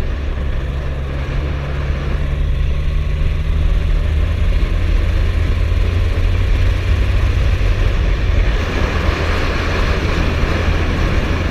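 Suzuki GSF1250S Bandit's inline-four engine running steadily while under way, with a constant rush of wind noise that grows a little louder near the end.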